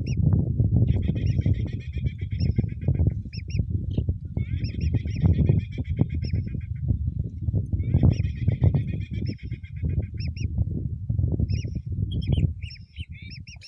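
Strong wind buffeting the microphone, with lesser whistling ducks (belibis) giving rapid high whistled calls in several bursts of about two seconds each. The wind noise eases off near the end.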